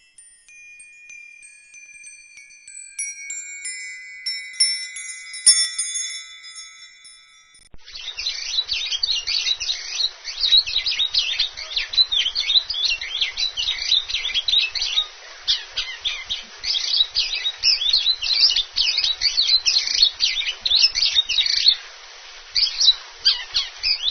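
Wind chimes ringing, many high tones overlapping as they are struck one after another. About eight seconds in, an abrupt change to a dense chorus of small birds chirping rapidly.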